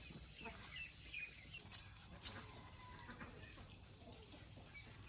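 Faint outdoor rural ambience: a steady high-pitched insect drone, with scattered short bird chirps and faint ticks over it.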